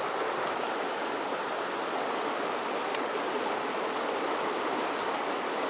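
Mountain stream water rushing steadily over rocks, with two faint ticks in the middle.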